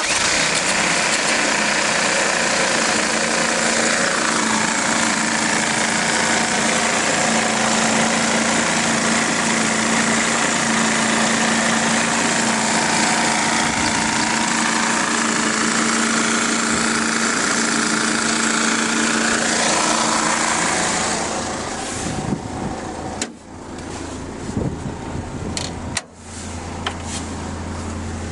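Mercedes Sprinter 2.9 five-cylinder diesel engine running, loud and steady. About 21 seconds in the sound drops and turns uneven, with a few clicks, then settles into a steady low hum near the end.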